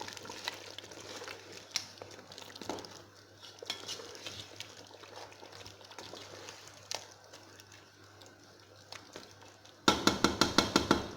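A spoon stirring stew in a cooking pot, with scattered clinks against the pot. Near the end comes a sudden, rapid run of about a dozen loud knocks lasting about a second.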